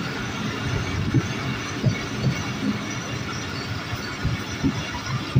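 Moving goods train heard from the doorway of its locomotive: a steady rumble of wheels on the rails, with irregular low knocks from the running gear.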